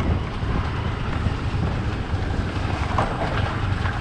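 Motorcycle riding over a rough off-road trail: low engine rumble under wind buffeting the microphone, with a few short knocks about three seconds in.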